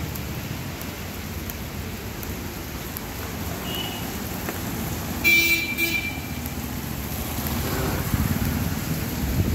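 Heavy rain falling steadily on a wet road with traffic moving through it. About five seconds in, a vehicle horn honks briefly; it is the loudest sound.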